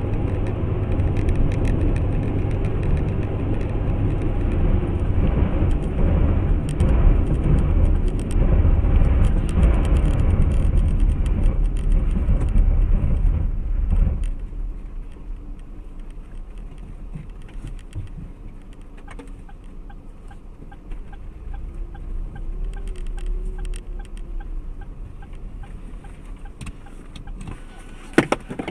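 Car interior noise of driving, a steady engine and road rumble, that drops suddenly to a quieter hum about halfway through, with faint, evenly spaced ticking. A few sharp knocks come near the end.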